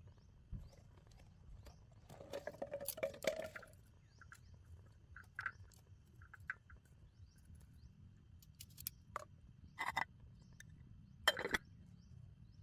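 Camp cookware and utensils being handled: scattered light clinks and knocks, a busier run of taps about two to three and a half seconds in, and two sharper knocks near the end.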